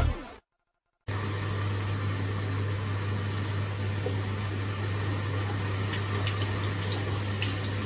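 A brief silence, then a steady low machine hum with an even hiss.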